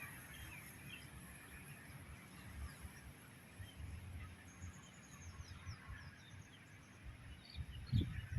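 Birds calling: short high chirps and, about halfway through, a quick run of falling high notes, over a low uneven rumble.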